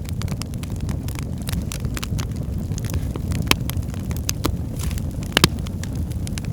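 Wood fire burning in a fireplace: a steady low rumble of the flames with frequent sharp crackles and pops, two louder pops about three and a half and five and a half seconds in.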